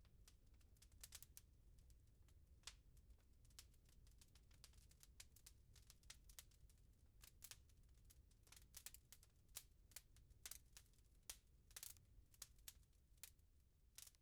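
Wood fire crackling in a fireplace: quiet, irregular sharp pops and snaps over a low steady rumble, growing busier after about eight seconds.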